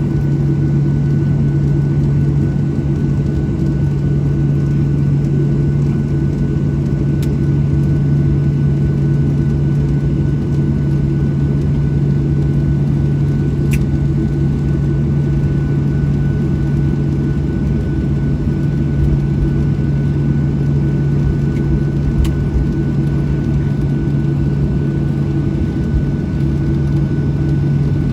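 Steady, unchanging hum inside a Boeing 737-700 cabin on the ground, with a strong low drone and a thin high whine, and a few faint clicks.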